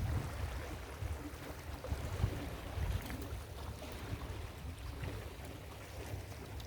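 Ocean surf washing onto a beach, with wind gusting on the microphone as a low, uneven rumble.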